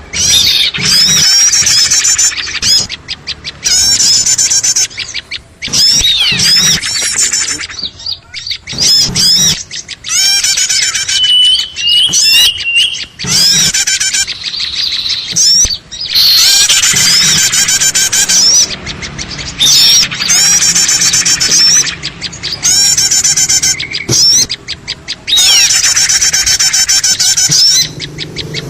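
Small-bird lure recording: many small birds chirping and twittering noisily at once, in dense, fast, high calls that come in repeated bursts of a few seconds with short breaks. It is the kind of 'noisy' call mix played to draw small birds in.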